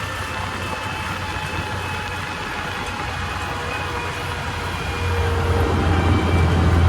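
Preet 987 combine harvester's diesel engine running under way, a steady low hum with a faint whine above it, growing louder about five seconds in.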